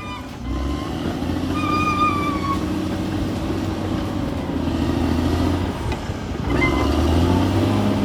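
Bulldozer's diesel engine running steadily, with a brief high tone about two seconds in and again near the end.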